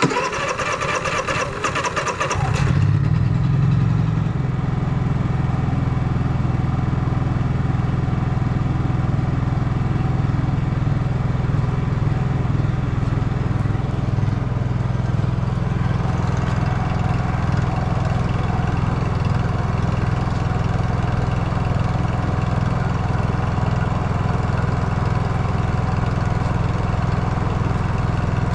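Honda EU3000IS inverter generator's single-cylinder engine being started: about two seconds of cranking that catches, a brief rise, then the engine settles into running steadily. It is being warmed up so the oil will drain.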